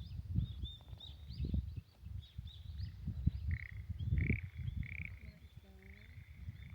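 Small birds chirping and twittering in quick repeated short notes, over an uneven low rumbling noise.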